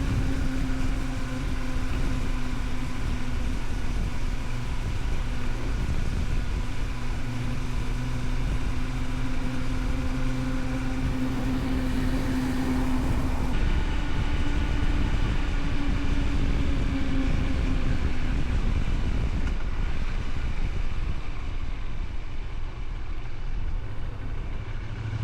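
Honda VTR250 V-twin motorcycle engine running at a steady cruising pitch, under a low wind rumble. The engine note fades out in the last several seconds as the bike eases off.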